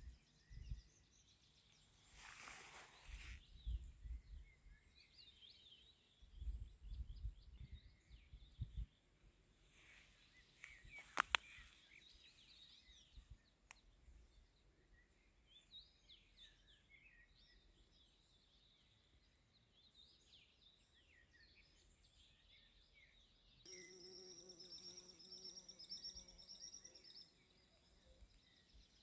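Faint birdsong from several small birds singing in the evening countryside. There are low rumbles in the first half and a sharp click about eleven seconds in. A steady hum with several pitches comes in for about three seconds near the end.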